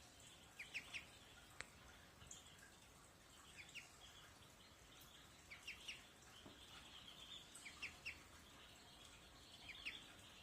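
Small birds chirping: quick groups of two or three short, high chirps about every two seconds, over a faint continuous twittering.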